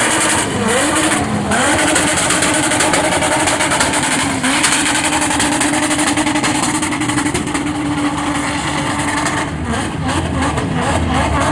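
Car engine running hard at high revs, its pitch wavering at first, holding steady through the middle, then dropping briefly near the end, over a loud hiss.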